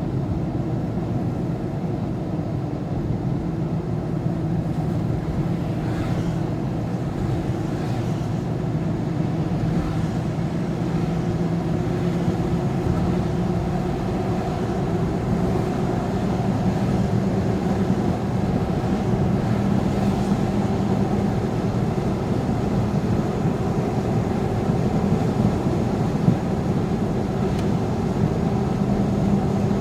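Steady engine and road noise of a moving vehicle, heard from inside the cab: a continuous drone whose pitch rises a little in the first half and then holds steady.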